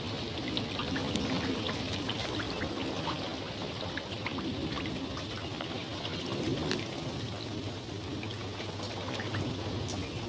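Steady rain with water pouring and trickling, sprinkled with many small drip ticks.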